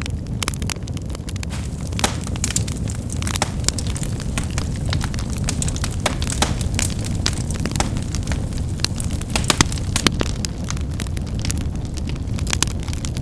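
Firewood burning and crackling: frequent sharp snaps and pops, irregularly spaced, over a steady low rumble.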